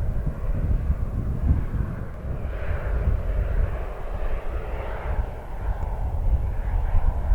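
Jet airliner engine noise: a steady low rumble, joined by a rushing hiss about two and a half seconds in.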